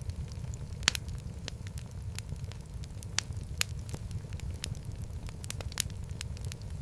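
Wood fire burning in a fireplace: a steady low rumble of flames with scattered sharp crackles and pops, the loudest pop about a second in.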